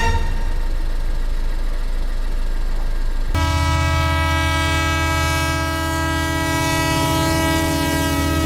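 A steady low hum, then about three seconds in a loud, steady horn-like tone with many overtones starts abruptly and holds without a break.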